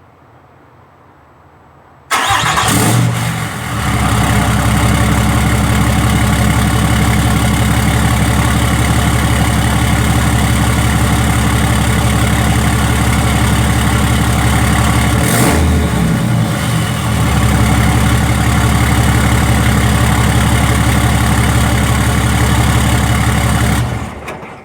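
Cummins diesel truck engine cold-starting suddenly about two seconds in, then idling steadily, heard through the bare exhaust with the 4-inch tip removed. The note dips briefly about two-thirds through, and the sound drops away near the end.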